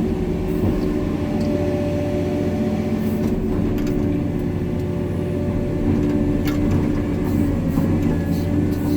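Hitachi 890 excavator's diesel engine running steadily under load, with a steady hum and a higher whine over it.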